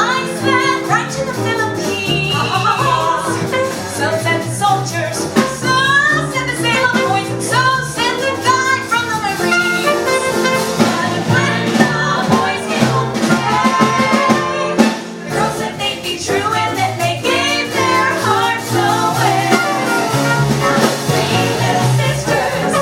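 Swing-style jazz band music with brass, played live, with a close-harmony vocal trio singing over it.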